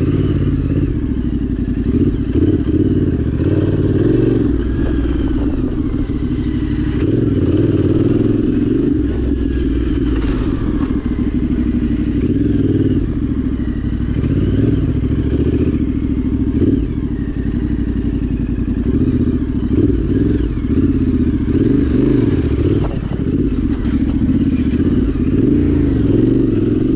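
Yamaha Ténéré 700's parallel-twin engine running steadily under way, with a loud wavering drone. The rider reports a bad vibration and suspects something is wrong with the bike.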